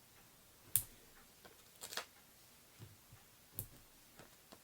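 Faint, scattered clicks and taps of foam adhesive dimensionals being peeled from their sheet and pressed onto the back of a cardstock piece: about five short sharp ticks, the loudest about three-quarters of a second in.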